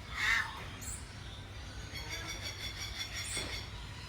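Aviary birds calling: one loud, harsh call right at the start, then a fast, high, repeated chirping from about two seconds in, over a low steady hum.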